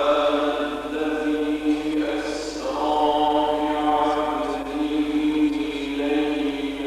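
A man reciting the Quran in the melodic tajweed style. He draws out long, held notes that bend slowly in pitch, and the voice comes in suddenly and loud.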